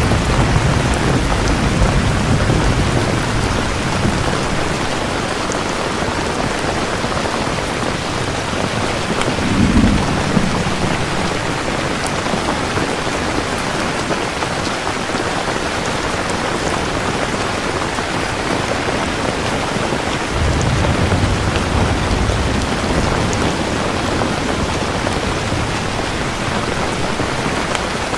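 Steady heavy rain with thunder rumbling three times: at the start, about ten seconds in with a sharper crack, and again around twenty seconds in.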